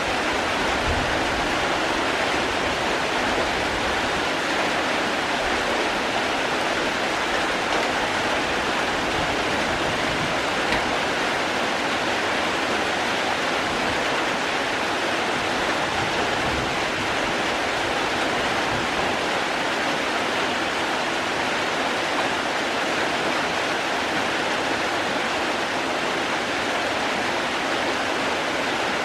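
Steady rain: an even, unbroken hiss of falling water with no single drops standing out and no change in strength.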